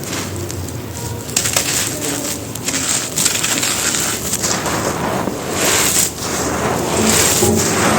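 Dry chunks of bajri (a coarse sand and gravel mix) being crumbled and crushed: continuous gritty crunching, with louder crunches coming again and again.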